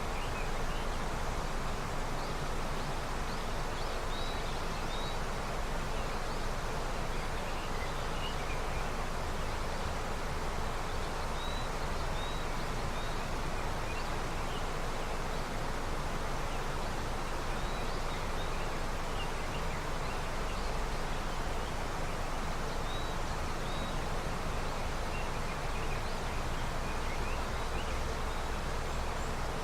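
River running steadily with early snowmelt, an even rushing of water, with small birds chirping now and then over it.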